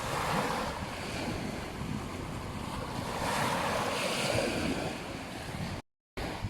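Sea waves washing onto a beach, surging twice, with wind rumbling on the microphone. The sound drops out completely for a split second near the end.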